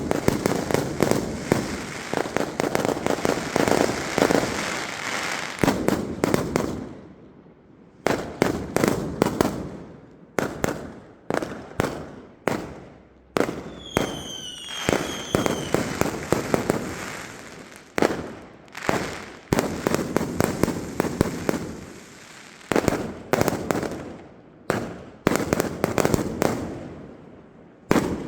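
Fireworks going off in rapid volleys: repeated sharp bangs and crackling, with short lulls between the bursts. A brief high warbling whistle sounds about halfway through.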